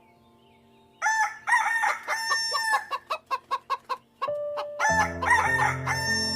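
Rooster crowing twice, about a second in and again near the end, with a quick run of short clucks in between.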